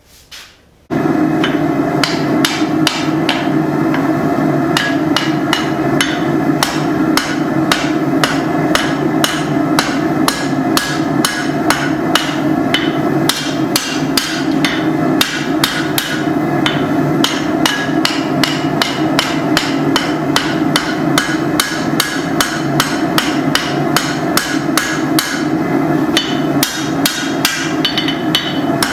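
Hand hammer striking hot leaf-spring steel on an anvil at about two to three blows a second, profiling the blade's point, starting abruptly about a second in. Under the blows runs the steady roar of a propane forge.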